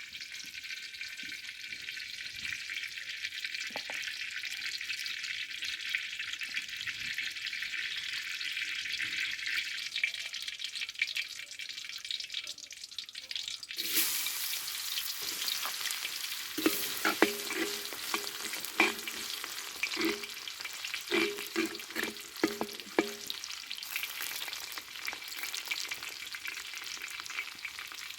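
Food sizzling in hot oil in a pan, a steady hiss. About halfway through the sizzle grows louder and is joined by repeated clicks and scrapes of a utensil in the pan.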